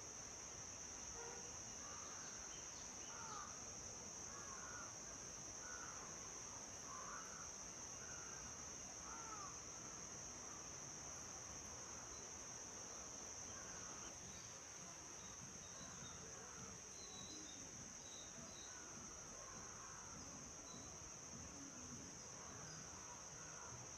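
Steady high-pitched drone of insects such as crickets, with short bird calls repeating about once a second over it that thin out past the middle.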